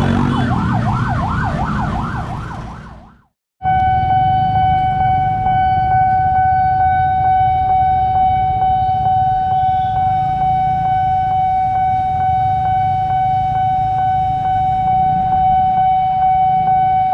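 A fast warbling siren-like wail fades out about three seconds in. Then comes the railway level-crossing warning alarm: a steady high tone with a regular tick about twice a second, sounding on while the crossing barrier lowers.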